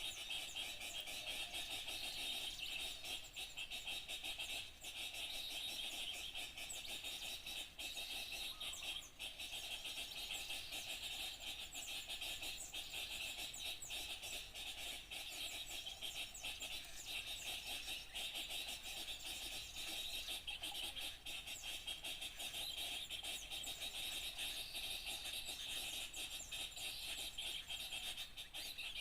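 Dense, continuous chirping of many small songbirds calling at once, with no pauses: a bird-lure recording meant to draw small birds in.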